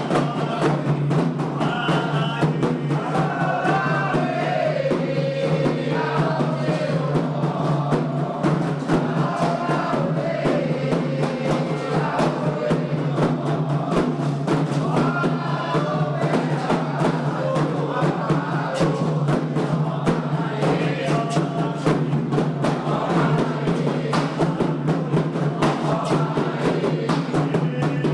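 Candomblé ritual music: hand drums beating a fast, steady rhythm under a group of voices singing a chant for Xangô.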